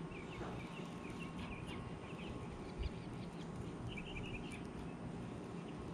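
Birds chirping in short scattered bursts over a steady low outdoor rumble, with a soft low thump about three seconds in.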